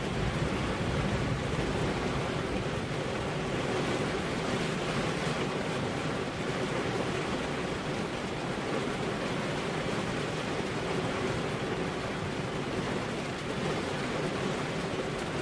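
Steady rain with wind, an even hiss.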